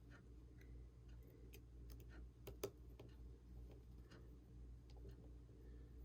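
Near silence with scattered faint small clicks and ticks of a tiny tool and screws being worked on the open iPhone 6, one sharper tick about two and a half seconds in, over a low steady hum.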